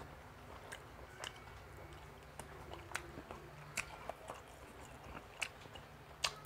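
A person biting and chewing fried calamares close to the microphone, with irregular sharp crunchy clicks, the loudest near the end.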